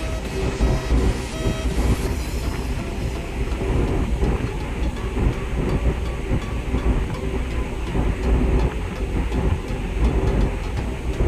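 Steady low mechanical rumble with a few held tones above it, running evenly throughout.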